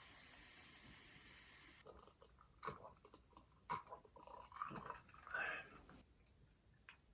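Close-miked eating sounds: soft chewing and mouth sounds with scattered clicks. A steady hiss cuts off about two seconds in.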